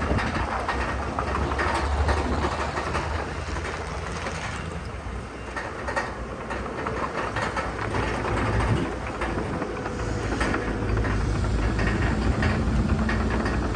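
Heavy diesel earthmoving machinery running, with a steady low engine rumble and continuous clanking and rattling, like steel tracks and rock being pushed.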